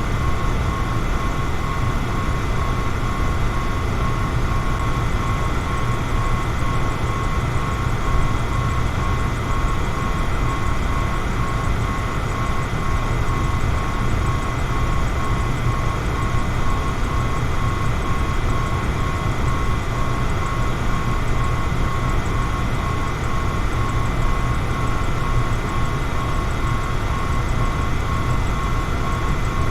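Electric fan running steadily: an even rush of moving air over a low motor hum, with a thin, steady whine on top.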